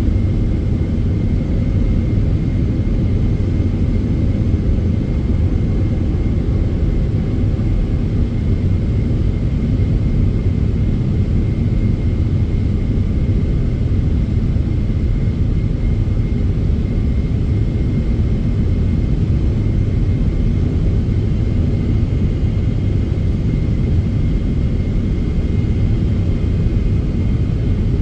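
Steady cabin noise inside a Boeing 777-300ER in flight: a constant rumble of airflow and its GE90 engines, with a faint steady whine.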